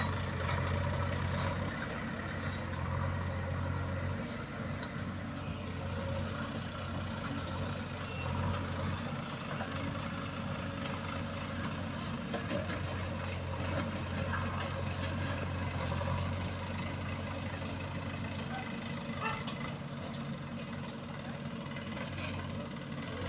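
Diesel engine of heavy earth-moving machinery running, its low hum fading and returning several times as the load changes.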